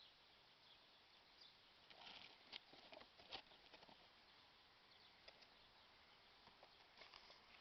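Faint handling noise: light rustling with scattered soft clicks and taps, busiest about two to four seconds in.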